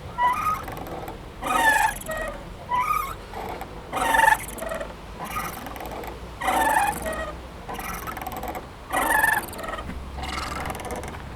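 Playground swing squeaking rhythmically as it swings back and forth, a wavering squeal on each pass, the louder ones about every two and a half seconds.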